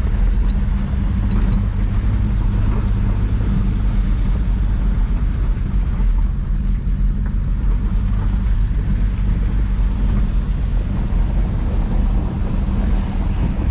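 Ford Ranger pickup's engine running steadily, heard from inside the cab, a constant low rumble.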